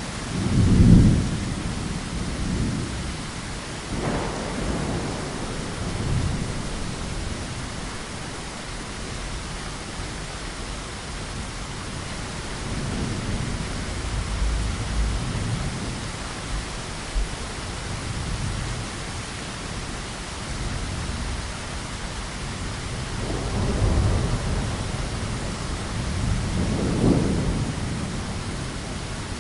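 Steady heavy rain with thunder rumbling over it: a loud low rumble about a second in, then several softer rolling rumbles through the rest.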